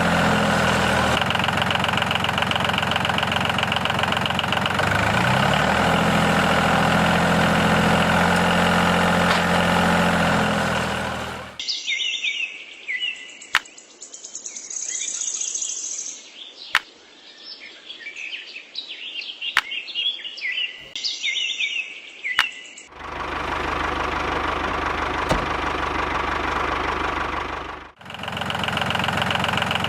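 A small engine running steadily, cut off about a third of the way in by a stretch of bird chirps with a few sharp clicks, after which the engine sound returns for the last several seconds.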